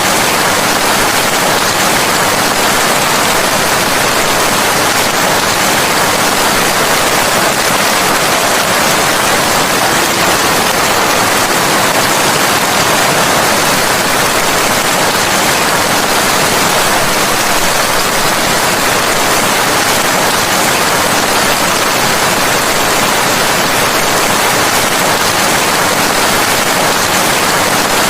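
Steady rain, an even, unbroken hiss with no single drops or thunder standing out.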